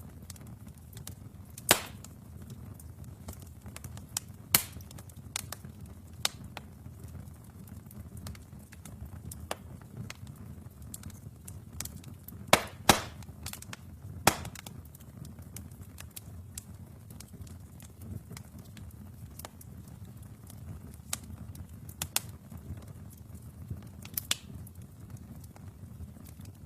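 Wood fire burning in a fireplace: a low steady rumble of flames with scattered crackles and sharp pops, a few louder snaps now and then, including two close together about halfway through.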